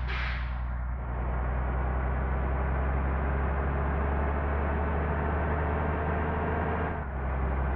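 Large engine running steadily with a low, even drone, dipping briefly near the end.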